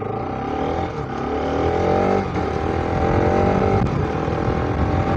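Motorcycle engine accelerating from a pull-away, rising in pitch twice with a drop after each climb about two and about four seconds in as the rider shifts up, over low rumble from riding.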